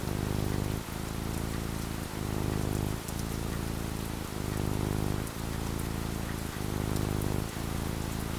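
Steady rain falling, with a low hum underneath that dips briefly about once a second.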